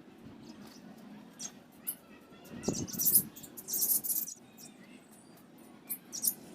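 Budgerigars in a colony aviary chirping and squeaking, many short high calls. A louder, noisier stretch comes in the middle.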